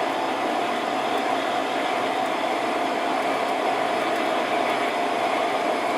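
Metal lathe running with its spindle turning steadily, a constant hum with a strong mid-pitched tone, while the tool bit is fed slowly into the workpiece to chamfer its edge.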